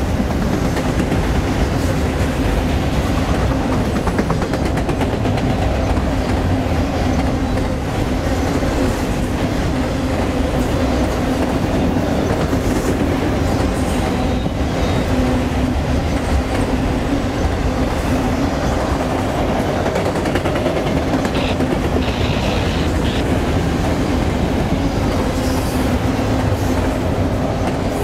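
Autorack freight cars of a CSX train rolling steadily past, wheels running on the rails as a continuous rolling rumble with a steady low hum through it.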